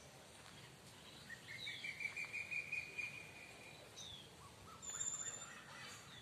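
Birds calling: a few short chirps that slide downward, a pulsing trill lasting about two seconds that starts a little over a second in, and a brief high, thin whistle about five seconds in.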